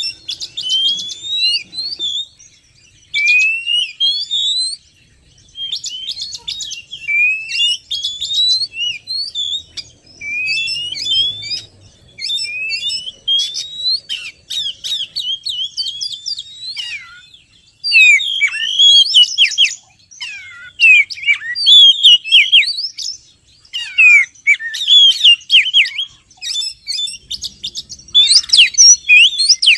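Oriental magpie-robin (kacer) song: short phrases of rising whistles and fast chattering notes with brief pauses, at first repeating about every two seconds, then denser, louder and more varied in the second half.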